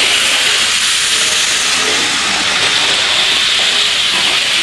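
A toy steam train gives off a loud, steady hiss, like letting off steam. It begins with a click and carries on evenly for several seconds.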